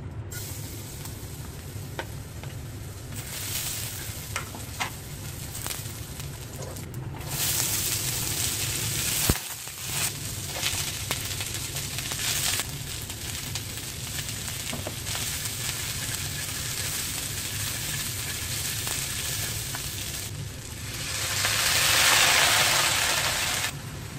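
Food sizzling in hot oil in a wok during a stir-fry of garlic, sausage, carrot and corn, with the scrape and tap of a spatula against the pan. The sizzle surges louder as ingredients go in, and swells into a strong hiss near the end.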